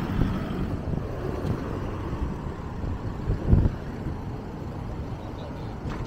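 Wind buffeting the microphone outdoors: a low, uneven rumble with a stronger gust about three and a half seconds in.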